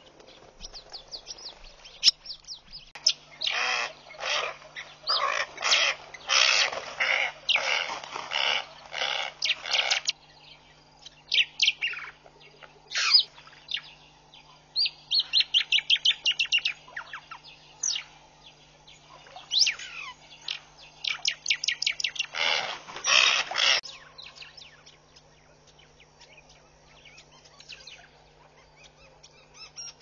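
Wild birds calling. Harsh rasping calls repeat about twice a second for several seconds. Then come a few high whistled notes sliding downward and quick chattering series of rapid notes, and the calls fade to fainter ones near the end.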